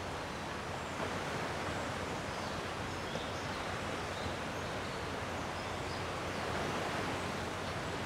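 Gentle sea waves washing on a rocky shore, a steady even wash of noise. Faint short high chirps come and go through it.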